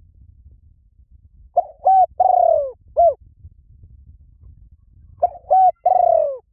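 Asian koel call played as a lure recording: two clear phrases of short, arched whistled notes, each with one longer falling note, about three and a half seconds apart.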